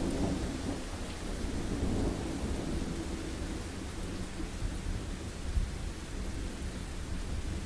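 Steady heavy rain with a low, rolling thunder rumble that is strongest at the start and eases off after about three seconds.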